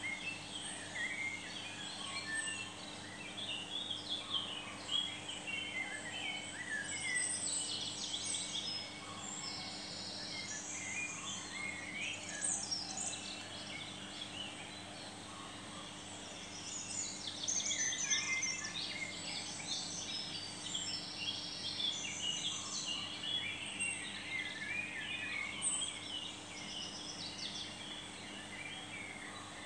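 Songbirds chirping and calling, many short overlapping calls throughout, over a faint steady low hum.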